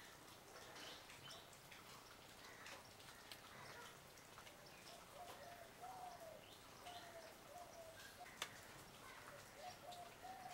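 Faint outdoor birdsong: scattered high chirps, and from about five seconds in a bird calling a run of short, repeated low whistled notes, about one a second. A single sharp click sounds once near the end.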